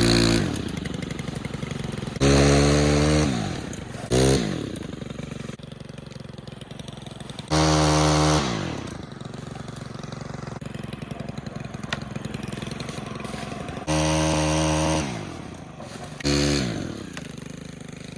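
A small engine revs in about six short bursts, each about a second long. Its pitch falls away after each burst, and between bursts it settles back to a steady idle.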